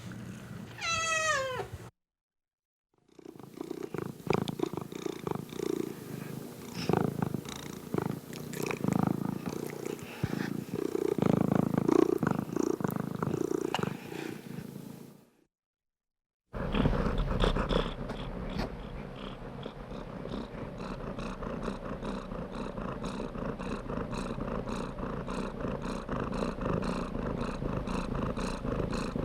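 Domestic cat: a single falling meow about a second in, then close-up purring in two stretches separated by brief silent cuts; the later stretch is a steady, evenly pulsing purr.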